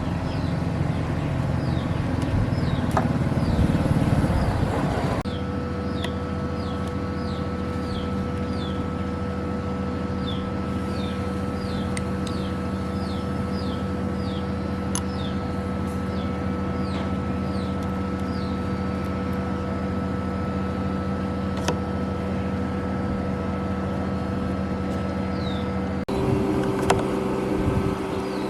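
A machine running with a steady hum, broken by abrupt changes about five seconds in and again near the end, where the pitch shifts. Short high chirps, like small birds, repeat over it.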